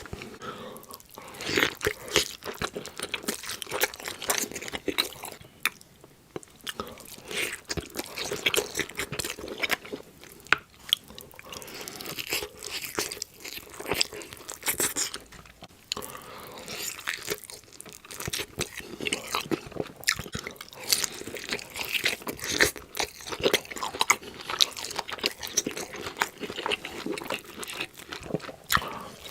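Close-miked mukbang eating: a person taking big bites of crunchy food and chewing it, with a steady stream of irregular sharp crunches and wet chewing.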